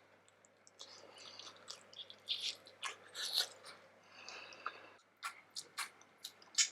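Close-miked chewing of steamed vegetable momo dumplings: irregular soft, wet mouth sounds with sharp clicks, the clicks coming thicker in the last couple of seconds.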